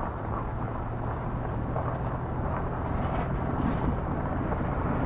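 Steady engine and road rumble of a vehicle driving, heard from inside the cab.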